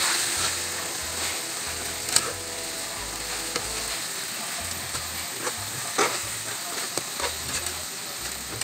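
Chicken pieces sizzling in hot oil and spiced masala in a wok, stirred with a metal spatula that knocks sharply against the pan a few times.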